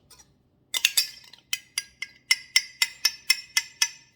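A utensil striking a dish repeatedly: about eleven sharp clinks, each ringing briefly, starting a little under a second in and settling to about four a second. This fits emptying the measuring cup of maple syrup into the mixing bowl.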